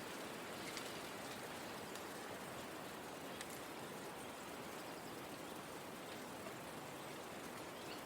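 Steady, soft hiss of a forest ambience track, like light rain or a gentle breeze through leaves, with a few faint ticks.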